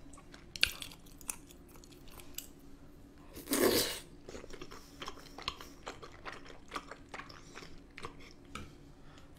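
A person chewing a mouthful of creamy carbonara tteokbokki, with many short wet mouth clicks and one louder half-second burst of mouth noise about three and a half seconds in.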